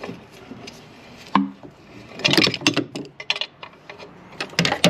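Metal clinks and clattering of hand tools and bolts being handled. There is a sharp clink about a second and a half in, then bursts of rattling around two to three seconds and again near the end.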